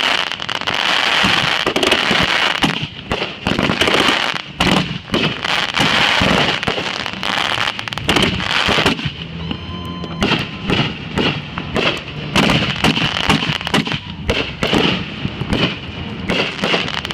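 Consumer fireworks going off: a continuous run of rapid pops and crackles, with louder bangs scattered through it.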